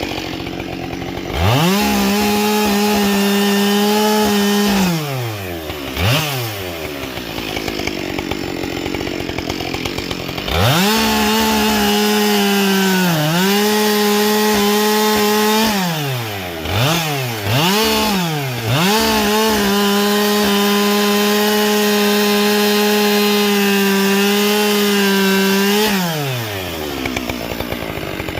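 Husqvarna 572 XP two-stroke chainsaw fitted with a carbide chain, revved to full throttle in long bursts and cutting wood, dropping back to idle between cuts, with a few short throttle blips. Near the middle the engine pitch sags briefly, as under load in the cut.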